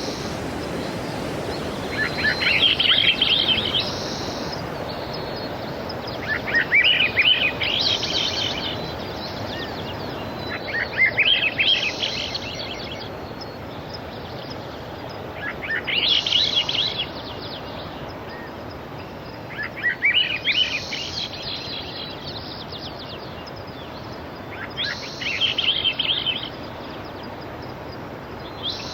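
Steady wash of sea waves, with a songbird repeating the same short song phrase about every four to five seconds.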